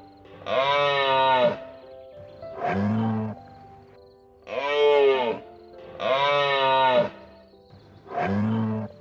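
Farm animal calls: five drawn-out cries that rise and fall in pitch, in a repeating pattern of two longer, higher calls followed by a shorter, lower one, over background music.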